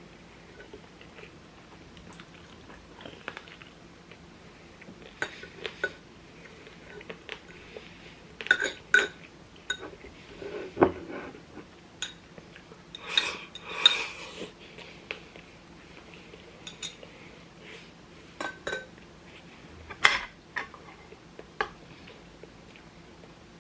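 Eating utensils clinking and scraping against bowls and dishes during a meal, in irregular scattered clinks and knocks.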